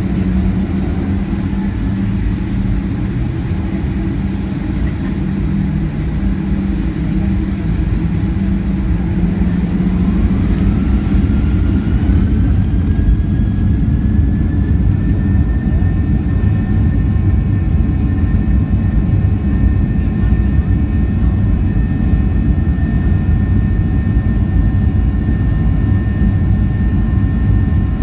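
Boeing 737-700's CFM56 jet engines heard from inside the cabin, spooling up to takeoff thrust: a whine rises about ten seconds in and levels off a few seconds later over a heavy, steady rumble of the takeoff roll.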